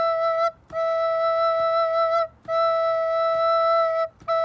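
Soprano recorder playing the note E as a string of held half notes, all at the same pitch, with short breaks between them for breath and tonguing.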